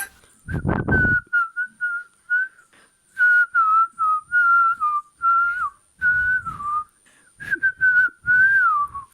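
A person whistling a tune: one wavering line of short notes, some sliding down in pitch, with brief pauses between phrases. A few low rumbles break in at times.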